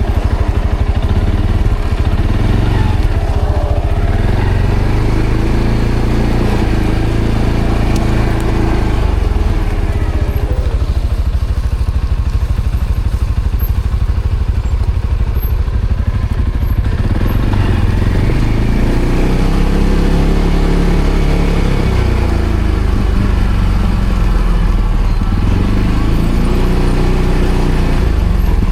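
ATV engine running under load off-road, its pitch rising and falling with throttle in the second half.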